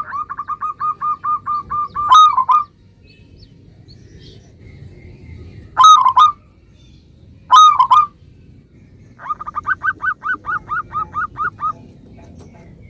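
Zebra dove (perkutut) cooing song: a quick run of short, evenly paced coos, then louder, sharper calls at intervals of a few seconds, and another quick run of coos in the second half.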